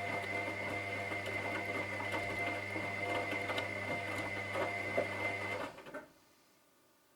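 Washing machine running with a steady motor hum, a thin high whine and light clicking and rattling. It stops suddenly about six seconds in.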